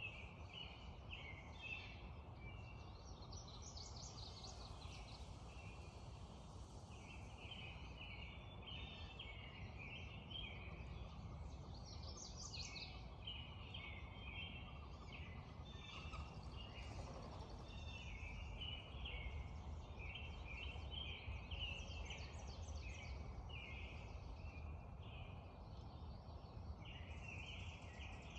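Spring dawn chorus: many songbirds singing at once, short overlapping chirps and trills without pause, over a steady low background rush.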